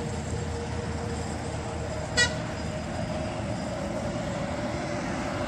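Road traffic on the adjacent highway, a steady low rumble, with one short car-horn toot about two seconds in.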